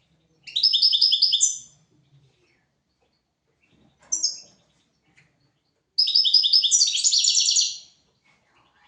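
European goldfinch singing: three phrases of rapid repeated high twittering notes. The first lasts about a second, a short burst comes near the middle, and a longer phrase of about two seconds runs near the end, with pauses between.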